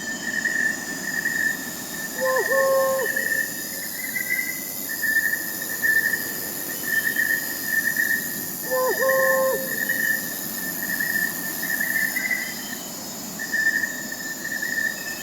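A chorus of crickets chirping in a steady pulsing rhythm, with fainter high insect trills above it. An owl hoots twice, about six and a half seconds apart, each hoot a short single tone.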